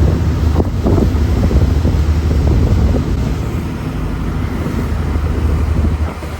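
A party fishing boat's engine running steadily, a low drone, with wind buffeting the microphone.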